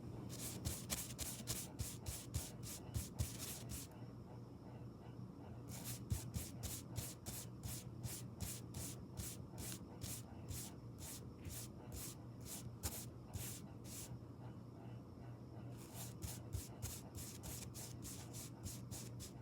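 Makeup brush swept in quick strokes close to the microphone, about three or four strokes a second, in three runs broken by short pauses.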